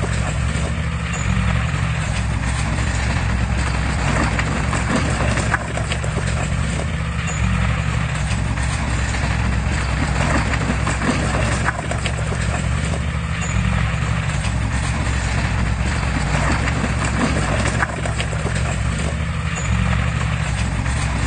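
Komatsu crawler bulldozer's diesel engine running steadily, with a rhythmic clatter from its steel tracks. The sound repeats the same pattern about every six seconds.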